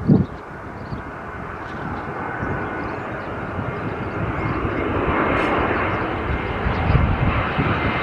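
An airliner's engines growing louder as the aircraft passes close by, loudest about five seconds in, with a faint steady whine over the noise. A short thump sounds right at the start.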